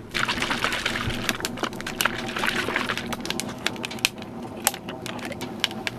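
Hands handling a bottled drink and its container: a run of small clicks, ticks and crackles over rustling.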